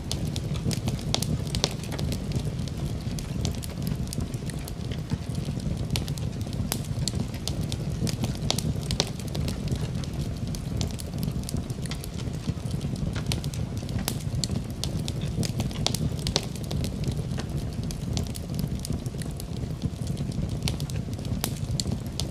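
Wood fire burning steadily, with a constant low rumble under frequent, irregular sharp crackles and pops.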